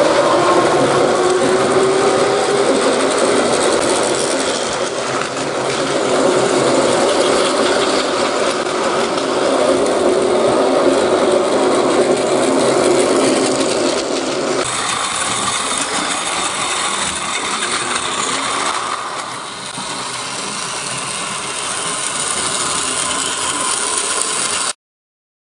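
Plarail battery toy train running on plastic track, its small motor and gearbox whirring and rattling steadily. The sound changes abruptly about 15 seconds in and cuts off suddenly near the end.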